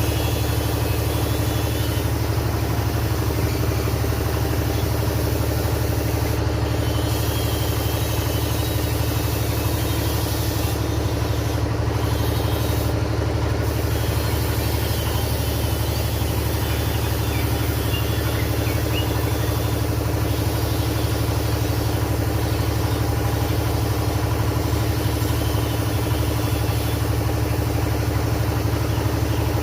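A motor running steadily with a low, even hum and a fast, regular pulse.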